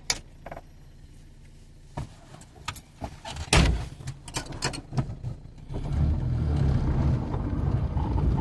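A series of knocks and clatters with one heavy thump, like a car door shutting, about three and a half seconds in. Then a car's engine and road noise start up steadily about six seconds in.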